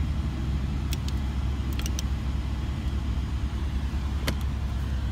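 Lamborghini Huracan Spyder's V10 idling, a steady low rumble heard from inside the cabin, with a few light clicks about a second, two seconds and four seconds in.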